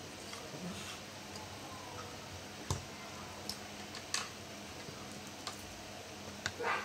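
Scattered sharp clicks and taps of small plastic parts, screws and tools being handled during laptop disassembly, about five separate clicks with a short rustle near the end.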